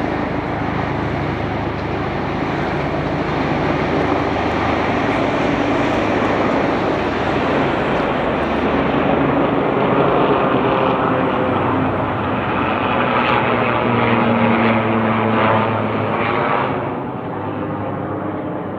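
Aircraft flying low overhead: a loud, steady engine drone that builds toward the middle and eases off near the end.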